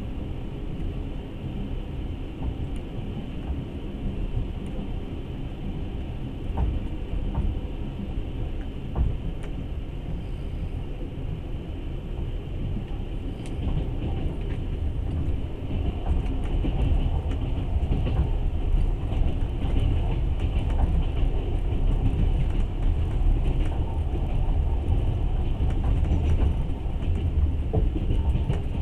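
Passenger train carriage running on the rails, heard from inside: a steady low rumble of wheels and carriage with a few faint clicks. It grows louder about halfway through.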